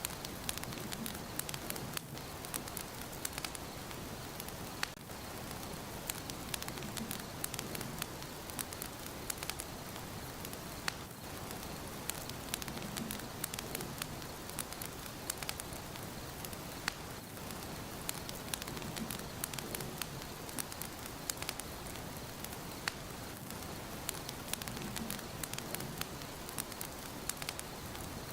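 Fire burning in a fireplace: a steady hiss with frequent sharp crackles and pops.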